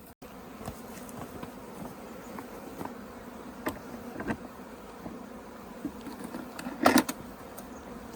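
Honeybees buzzing steadily around an open hive, with scattered knocks and clicks; the loudest is a short clatter about seven seconds in.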